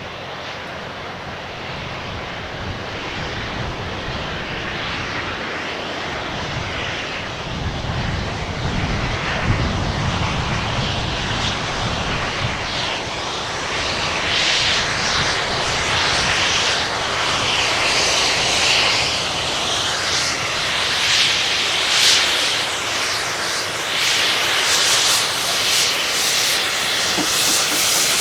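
A train on a heritage railway approaching, its steady rumble and rush growing louder, with a low rumble rising about a third of the way in and an irregular rushing beat building in the second half.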